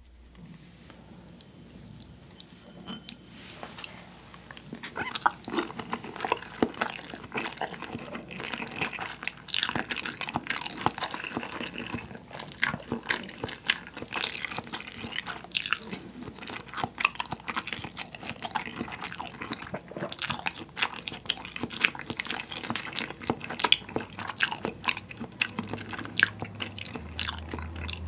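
Close-miked wet chewing of soy-marinated salmon and rice, a dense run of short moist clicks that sets in about four seconds in after a quieter start. The salmon flesh has firmed up in the soy brine, giving a chewy, springy bite.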